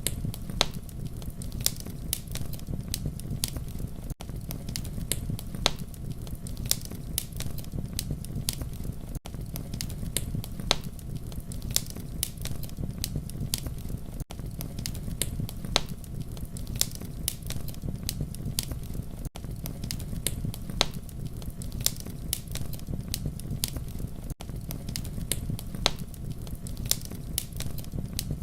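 Campfire crackling and popping: irregular sharp snaps over a steady low rumble of burning wood. The sound drops out briefly about every five seconds.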